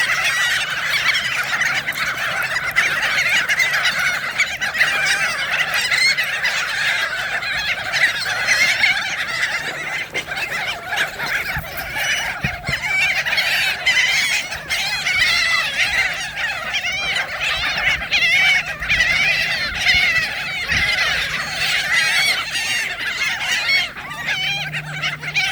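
A flock of seagulls calling all at once: a dense, unbroken chorus of many overlapping squawks from birds crowding in to be fed.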